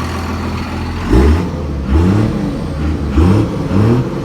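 1998 Dodge Ram 2500's 5.9-litre 24-valve Cummins inline-six turbo diesel, sounding through an 8-inch dump exhaust, idling and then revved in four quick throttle blips, each rising and falling back to idle.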